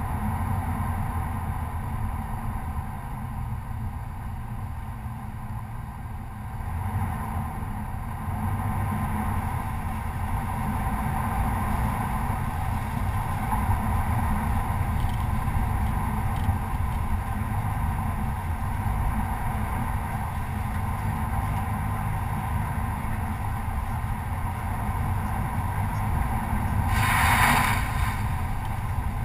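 Stock Chevy Colorado pickup driving steadily along a dirt trail, its engine and tyres giving a continuous low rumble that grows a little louder after several seconds. Near the end there is a brief, louder burst of sound.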